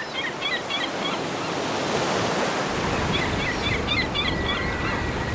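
Gulls calling over steady ocean surf: two bouts of quick, repeated short calls, the first near the start and the second about three seconds in.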